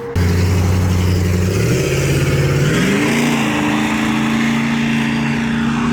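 Car engine at full throttle: a low steady note for about a second and a half, then climbing in pitch as the revs rise, then holding a higher steady note. It starts suddenly.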